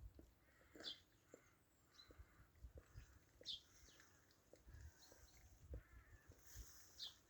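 Faint sounds of a flock of sheep: soft scattered ticks and rustling of the animals moving, with three short high chirps.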